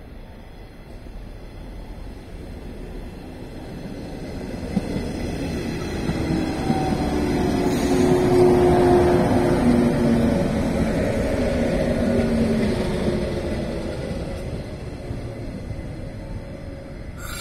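JR 115-series electric train arriving and slowing to a stop. The running noise of wheels on rail swells to a peak as the cars pass close by, then fades, with whining tones that drop in pitch as it slows. A sharp click comes right at the end.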